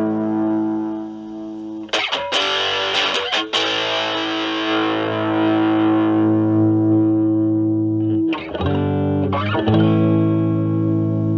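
Fender Stratocaster with single-coil pickups played through an Ibanez Super Metal mini distortion pedal set to low drive, into a Marshall Valvestate amp's clean channel, giving a cleaned-up tone. Chords ring out, with a few quick strums about two seconds in and a new chord struck near the end.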